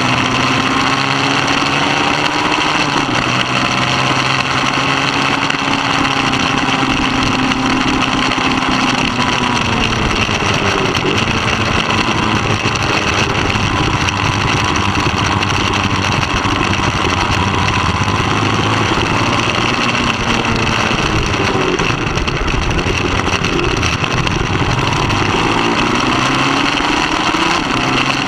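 Racing motorcycle engine running hard at high revs, its note rising and falling repeatedly as the bike accelerates and slows, over a constant rushing noise.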